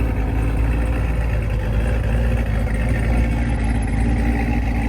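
Car engine idling steadily, a continuous low rumble with no revving.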